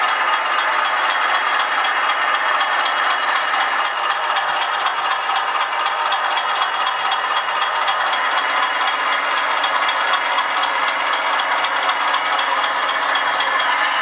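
Bachmann Class 20 00 gauge model diesel locomotive running along the track, a steady whirring rattle at an even level throughout.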